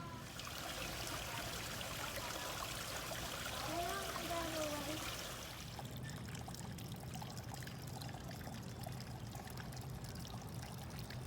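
Water trickling and splashing in a garden stream, a steady rush that drops to a quieter flow about six seconds in. A brief falling tone sounds over it about four seconds in.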